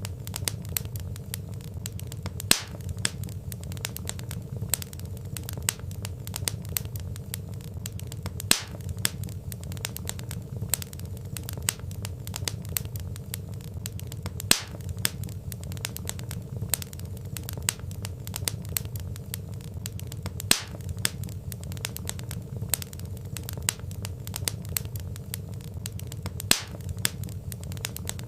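Wood fire crackling: dense small snaps and ticks over a steady low rumble of burning logs, with a louder pop about every six seconds.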